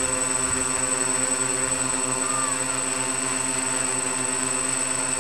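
Multirotor's four brushless motors (Altigator A3540) spinning 14x8 propellers in a steady hover: a constant buzzing drone whose pitch holds level.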